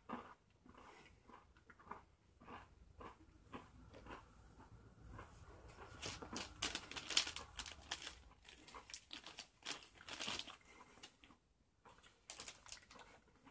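Someone chewing a bite of a Hershey's Waffle Layer Crunch bar, a chocolate-covered wafer bar: quiet, irregular crisp crunches, densest in the middle and again near the end.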